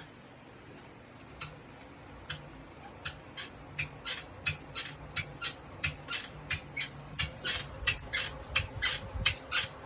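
NordicTrack S22i studio bike squeaking with each pedal stroke: a few short squeaks at first, then a steady run of about three a second that grows louder. It is a fault noise from the bike's pedal drive, over a faint low hum.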